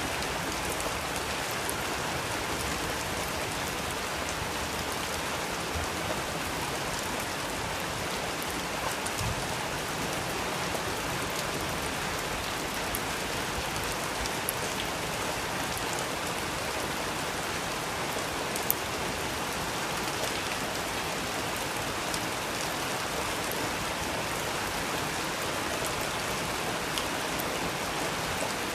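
Steady rain falling on a surface, an even hiss with scattered drop ticks, and one sharper tick about two-thirds of the way through.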